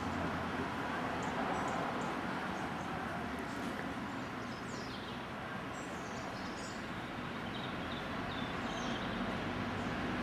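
Steady rushing background noise, with small birds chirping briefly several times, in short high calls from about the middle on.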